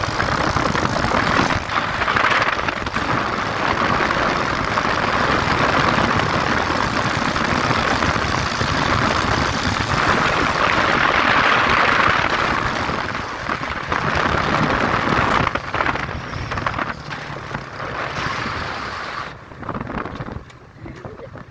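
Motorcycle riding at speed: the engine running under a loud, even rush of wind on the microphone. The noise drops away sharply near the end.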